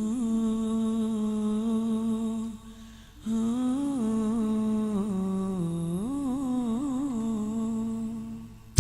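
A solo voice humming a wordless melodic line of an Arabic nasheed, in two long held phrases with a short breath between, the pitch wavering through ornamented turns. A sharp click at the very end.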